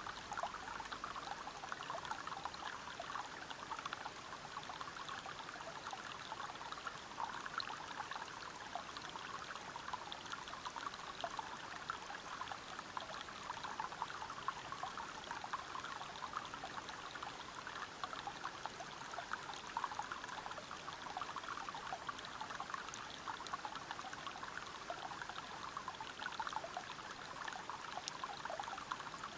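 River water flowing over rocks: a steady, unbroken rush of splashing, bubbling water.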